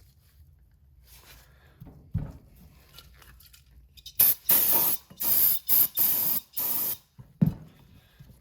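Aerosol can of brake cleaner sprayed in about five short hissing bursts, to clean the turbo parts. A dull knock comes a couple of seconds before the spraying and another just after it.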